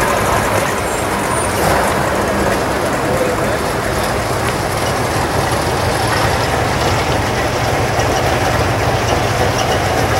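Classic cars' engines running at low speed as they roll past at walking pace: an early-1950s Buick going by, then a late-1970s Chevrolet coupe approaching. Voices of onlookers underneath.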